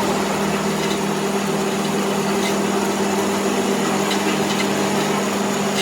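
A machine running steadily with a constant low hum, and a few faint ticks over it.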